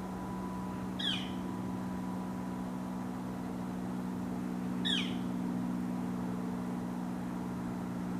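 A bird calls twice, each a short note sliding down in pitch, about four seconds apart, over a steady low hum.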